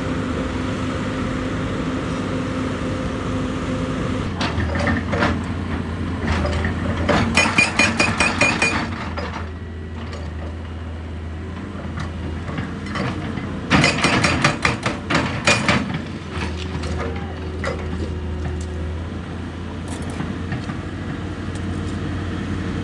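Heavy diesel excavator running steadily, with two spells of rapid metallic clattering knocks, about five or six a second, a third of the way in and again past the middle.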